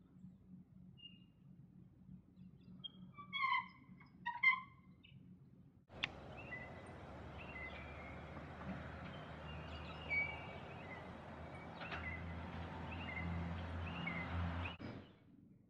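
Two short, loud bird calls about a second apart. Then, from about six seconds in, a steady outdoor background noise with scattered bird chirps over it, which cuts off suddenly near the end.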